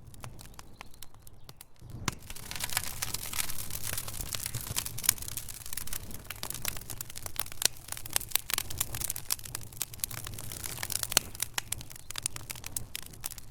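Burning logs crackling in a fireplace: sharp pops and snaps over a steady hiss. Sparse and quieter for the first two seconds, then denser and louder.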